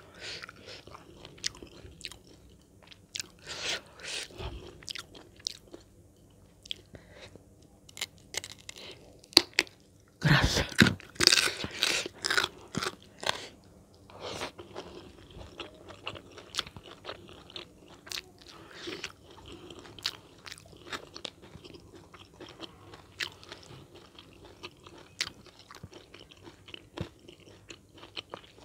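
A person eating close to the microphone, chewing and biting into crunchy food with many short crunches. A loud run of crunching comes a third of the way in, lasting about three seconds.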